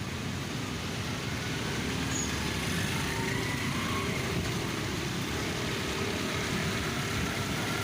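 Steady road traffic noise: vehicle engines running with a continuous hiss and low rumble, with a few faint, drawn-out tones drifting through.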